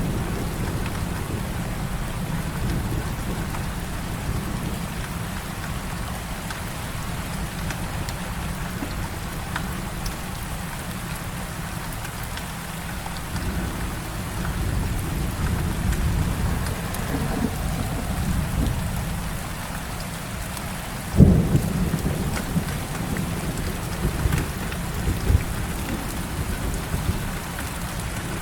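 Heavy rain falling steadily, with low rolling thunder underneath. A sharp thunderclap about three-quarters of the way through is the loudest sound, followed by a few lower rumbles.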